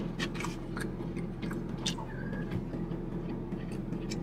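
Close-up mouth sounds of a man chewing a mouthful of fried rice and ham: scattered wet smacks and clicks over a steady low hum.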